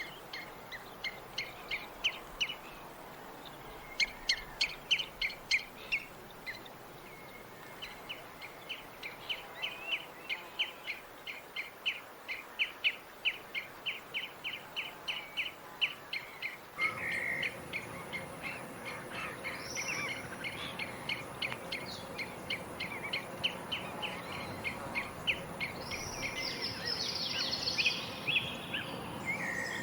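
Tropical birds chirping: a long run of short, high notes repeated about three a second. About halfway through, the background hiss rises and several birds call over one another, busiest near the end.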